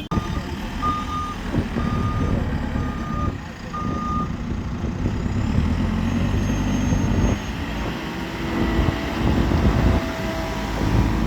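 Reversing alarm of a heavy vehicle beeping four times, about once a second, over the steady low rumble of its diesel engine.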